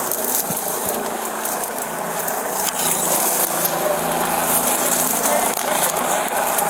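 Helicopter engine and rotor noise picked up through an open radio or intercom microphone: a steady drone with hiss, cutting off suddenly just after the end.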